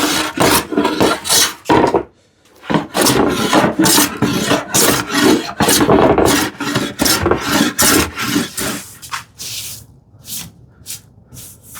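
Hand plane taking quick, short strokes across a wooden panel, shaving off glue lines, a few strokes a second. There is a brief pause about two seconds in, and the strokes turn sparser and lighter near the end.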